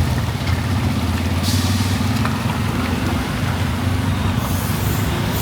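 Small motorbike engine running steadily while riding on a wet road in heavy rain, with a hiss of rain and tyre spray that swells about a second and a half in and again near the end.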